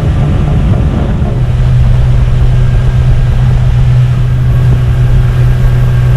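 Tohatsu 18 HP two-stroke outboard motor driving a small boat, running steadily with a low hum that grows a little louder about a second in.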